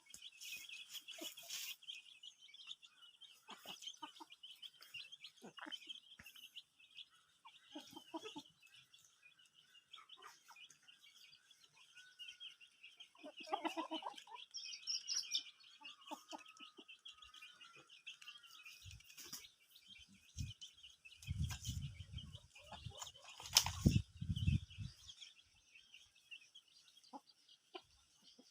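Aseel chickens clucking over a steady, rapid high chirping, with a cluster of louder calls about halfway through. A few loud low rumbling knocks come about three-quarters of the way in.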